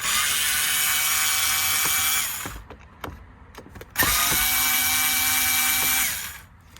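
Cordless power driver running twice, about two seconds each time, backing out the screws of a steering-column bracket; the motor's pitch rises as each run starts and drops as it winds down.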